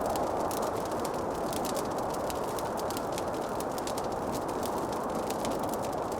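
Wood fire crackling in a fireplace, with many small, irregular pops and snaps over a steady rushing noise.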